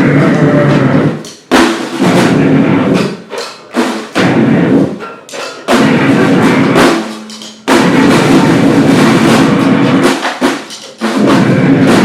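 Noise-grind band playing drums with harsh distorted noise in loud, dense blasts. Each blast lasts one to three seconds and cuts off abruptly, with short breaks between them.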